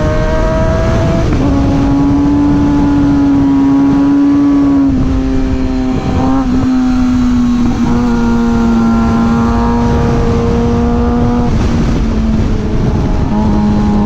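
Suzuki GSX-R 600's inline-four engine running at a steady cruise, with heavy wind rush on the microphone. The engine note steps slightly down and back up several times, about a second in, around five to eight seconds in and again near the end.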